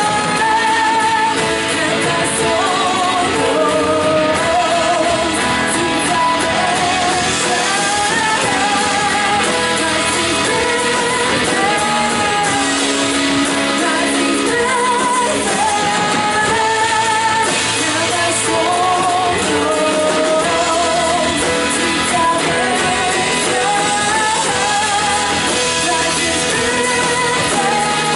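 Live worship band playing a song, with a singer's voice carrying the melody over guitar and band accompaniment.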